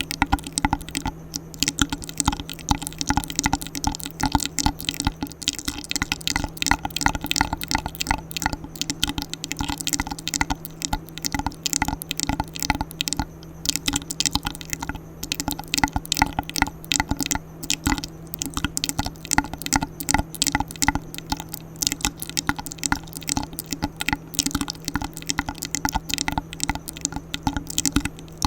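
ASMR mouth sounds: a fast, continuous run of wet clicks and smacks close to the microphone, many per second.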